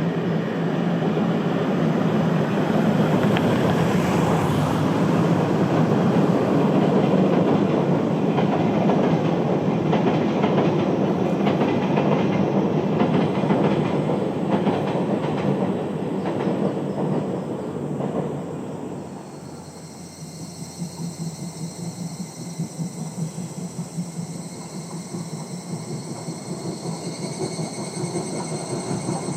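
A passenger train hauled by the C57 180 steam locomotive passing, the wheels of its coaches clacking over the rail joints. Near the two-thirds point the sound drops suddenly to a quieter, pulsing train sound with a faint high whine.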